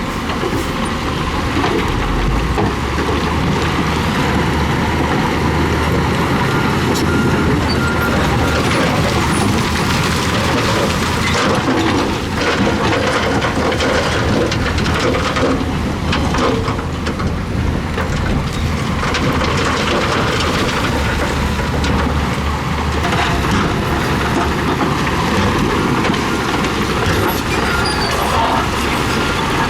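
Crawler dozer's diesel engine running steadily under load, with a dense rumble and clatter of its tracks and the gravel it pushes.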